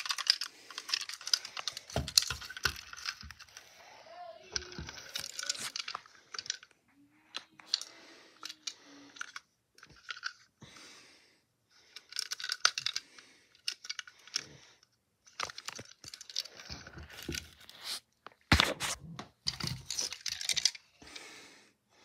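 Handling noise: rustling and crinkling in stretches, broken by many sharp clicks and light knocks.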